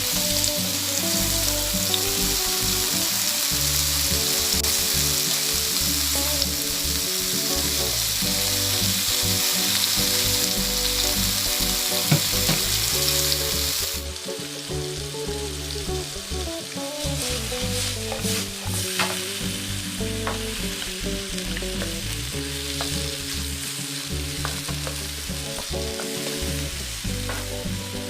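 Sliced zucchini and onion sizzling in hot cooking oil in a frying pan. The sizzle is loud for the first half and drops to a quieter frying about halfway through, with clicks and scrapes as the vegetables are stirred in the pan.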